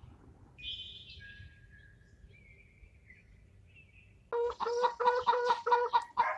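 Domestic fowl calling: faint high chirps at first, then about four seconds in a loud, rapid run of repeated clucking calls.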